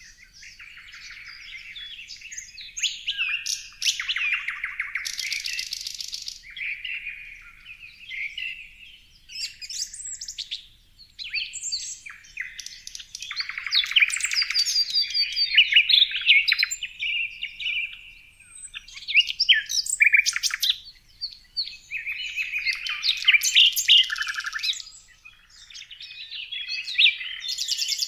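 Songbirds singing and chirping: a near-continuous run of varied high chirps, whistled notes and rapid trills, with brief pauses between phrases.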